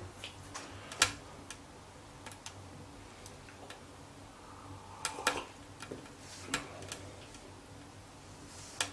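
Wood fire crackling in a freshly lit wood stove: scattered sharp pops and ticks, the loudest about a second in, around five and six and a half seconds in, and near the end.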